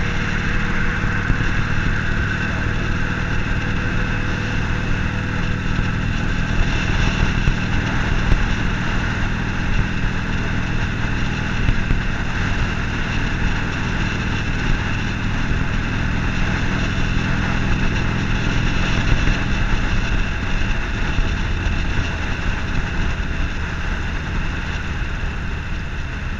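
Harley-Davidson Forty-Eight's air-cooled 1200 cc V-twin engine running steadily while the motorcycle cruises at an even speed.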